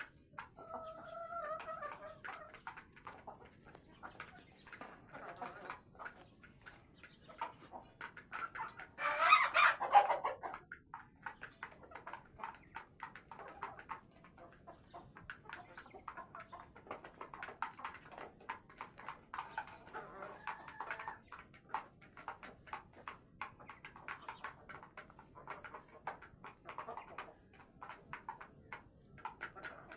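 Layer hens clucking with many short, quick sounds throughout, a drawn-out call about a second in and a louder, harsh squawk about nine seconds in.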